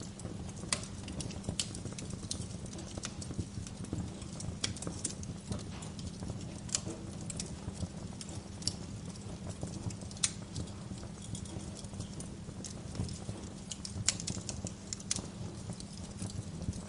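Bonfire burning, its wood crackling and popping in irregular sharp snaps over a steady low rumble.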